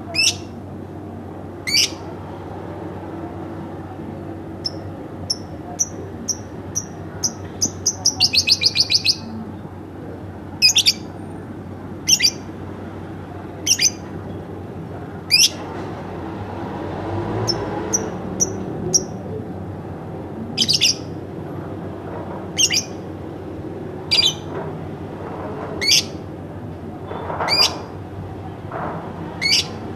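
Pet lovebird chirping: short, sharp, high chirps every second or two, with a quickening run of chirps that runs together into a trill about eight seconds in.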